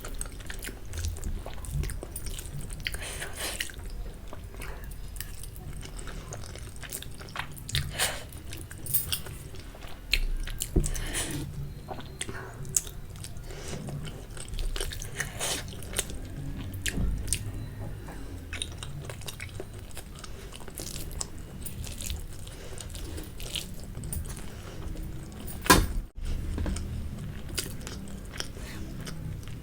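Close-up mouth sounds of a person chewing and biting into spicy Maggi instant noodles and boiled egg, with irregular wet clicks. One louder sharp knock comes about 26 seconds in.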